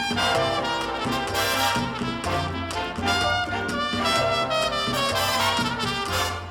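Big band playing a cha-cha-chá, with trumpets and trombones carrying the melody over a steady bass line.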